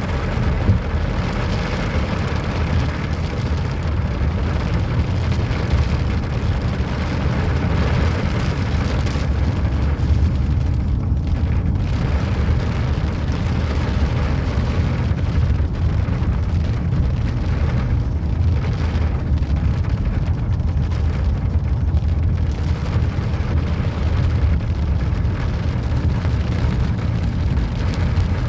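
Steady rain falling, over a continuous low rumble.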